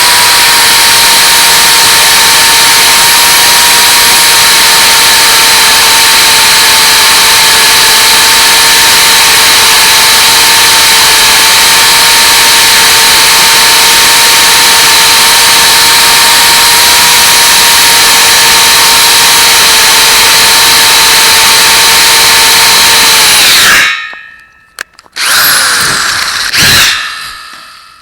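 Power drill boring a 1/4-inch pilot hole through heavy 3x3 angle rail: a loud, steady whine whose pitch sags slightly under load. It cuts off about 24 seconds in as the bit breaks through, then runs again briefly near the end.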